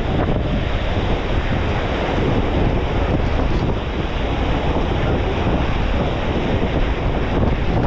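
Heavy lake waves washing against a moving ferry, with strong wind blowing across the microphone in a steady, loud rush.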